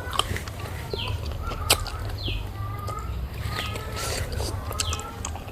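Eating sounds: chewing and mouth noises with a few sharp clicks. Under them are repeated short, falling bird chirps and a low steady hum.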